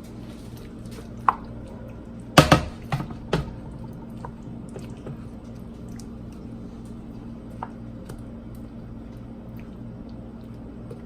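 Kitchen utensil knocking against a dish a few times in a quick cluster, with wet squishing of creamy sauce being spooned over food, then a few light clicks, over a steady low hum.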